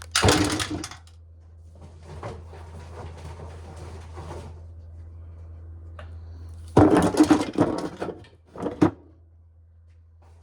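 Corn being shelled: a loud burst of rattling and grinding lasting about a second at the start, softer rattling over the next few seconds, then two more loud bursts near the end, all over a steady low hum.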